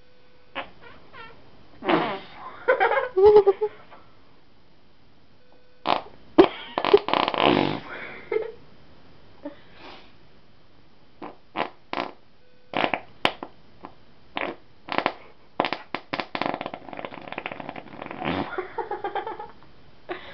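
A person making imitation fart noises, one after another. Two longer sputtering ones come in the first half, then a string of short sharp pops, then a long rapid sputter near the end.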